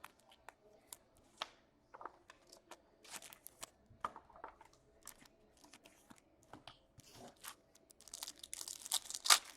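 Foil trading-card pack wrappers crinkling and being torn open, in faint scattered crackles with a louder stretch of tearing near the end.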